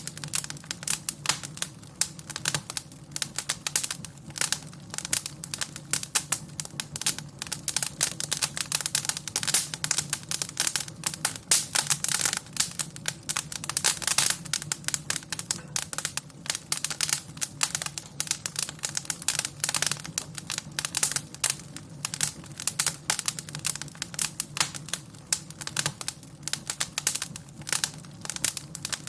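Wood fire crackling, with dense irregular snaps and pops over a low steady rumble.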